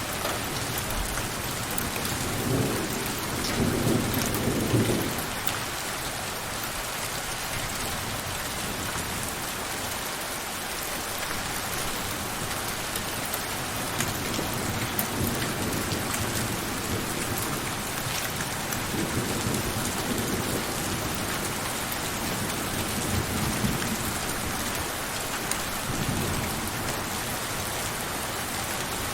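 Steady heavy rain falling, with low thunder rumbling in several swells, the strongest a few seconds in.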